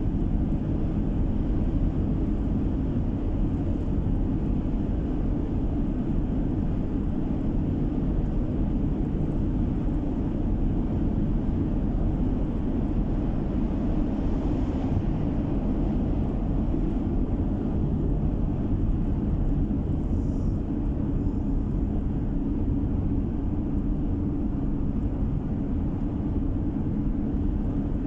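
Steady road and engine noise of a car driving at a constant pace, heard inside the cabin: a continuous low drone.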